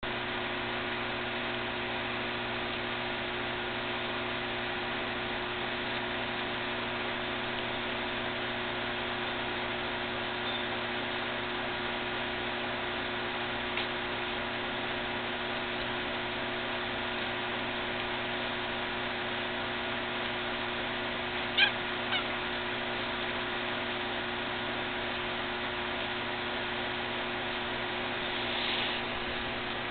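Steady electrical hum and hiss throughout, with a short, high squeak from one of the week-old nursing puppies about two-thirds of the way in, followed by a smaller one.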